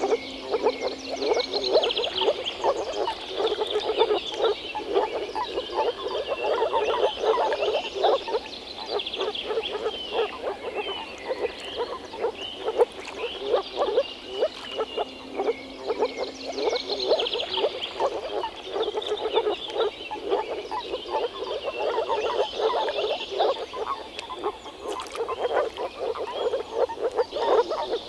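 A chorus of moor frogs (Rana arvalis) calling: many overlapping runs of quick, low, pulsed notes that never stop.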